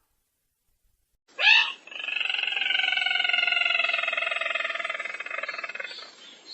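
Recorded lure call of the sintar merah bird, used for trapping: one short sharp note, then a long, slightly falling trilled call lasting about four seconds that fades out near the end.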